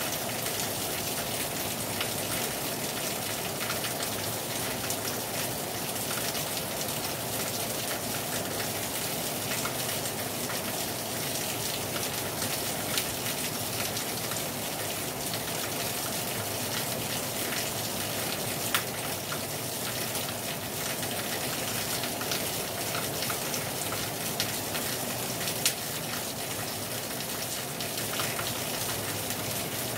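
Heavy rain falling hard on a terrace, a steady dense hiss with a few sharper, louder drop hits now and then.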